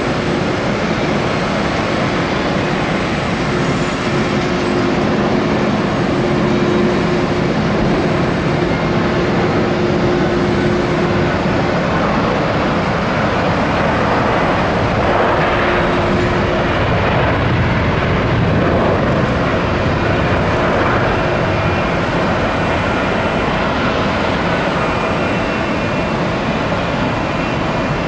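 Jet airliner engines running steadily at an airport, a continuous loud noise that swells somewhat around the middle.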